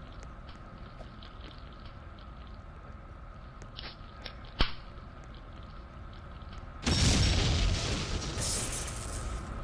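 Washing machine running: a faint steady hum with light clicks, a single sharp click about halfway through, then a loud rushing noise from about seven seconds in that drops briefly near the end.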